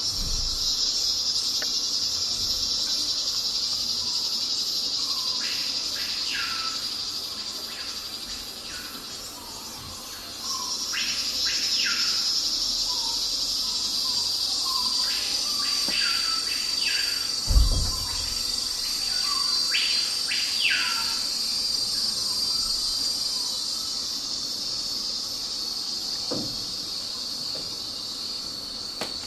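Steady high chirring of crickets that fades for a couple of seconds and comes back, with short falling bird chirps, often in pairs, scattered through the middle. A single dull thump comes about halfway through.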